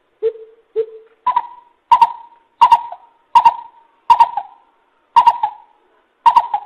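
Greater coucal hooting: a series of deep, evenly spaced hoots, two lower ones followed by seven louder, higher-pitched ones, about one every two-thirds of a second.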